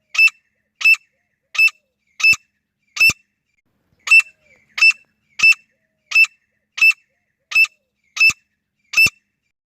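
Female grey francolin calling, a short sharp high note repeated evenly about three times every two seconds, with one brief break in the series.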